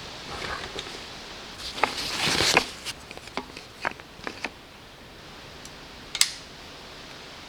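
Work with wood and brush: scattered sharp clicks and knocks, a short rustle about two seconds in, and one sharp crack about six seconds in.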